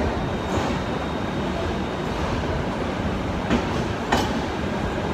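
Passenger train rolling along a station platform, heard from an open coach doorway: a steady rumble of wheels and running gear, with two sharp clacks about three and a half and four seconds in.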